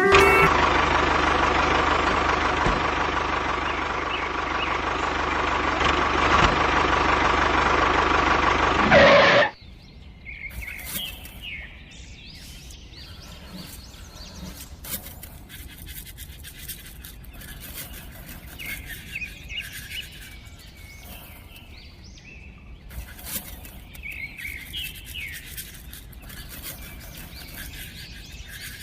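A loud, steady noise for about nine seconds that cuts off suddenly, followed by birds chirping quietly.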